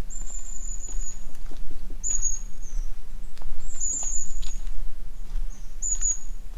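A bird calling in thin, very high, drawn-out notes that each fall slightly in pitch, about one a second. Under them are the soft steps of someone walking a forest trail.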